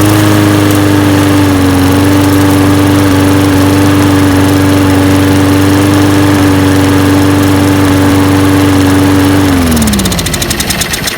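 Snapper SPX self-propelled mower's small single-cylinder engine running at a steady speed right after starting, then shut off about nine and a half seconds in, its pitch falling as it winds down. It has started without priming or starting fluid, now that its clogged main jet and stuck automatic choke have been cleaned.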